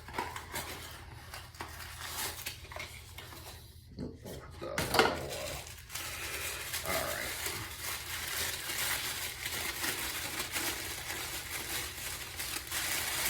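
Packaging being opened and handled by hand: rustling with many small clicks and knocks, louder about four to five seconds in.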